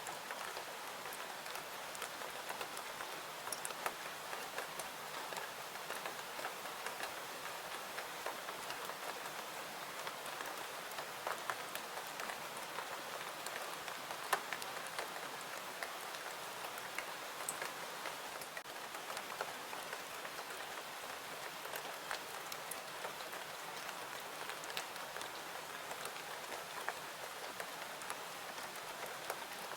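Steady rain falling, an even hiss with many small scattered ticks of drops.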